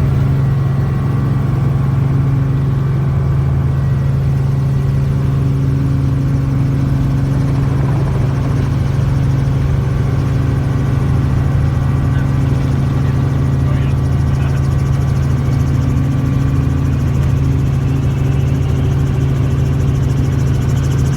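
Helicopter running with a loud, steady, low hum that holds constant.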